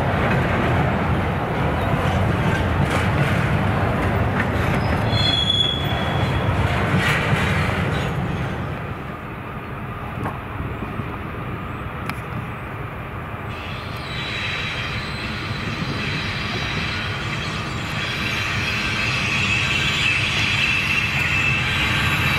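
Train rolling past on the rails, with a heavy rumble for the first several seconds. It eases off about eight seconds in, then the steady high squeal of wheels on rail builds toward the end.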